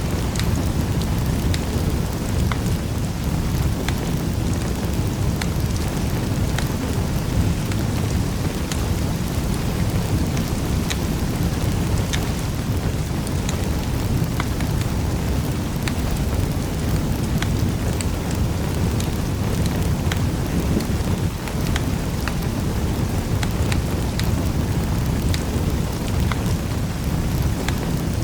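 Wood fire burning in a fireplace: a steady low rumble with frequent small crackles and pops scattered irregularly throughout.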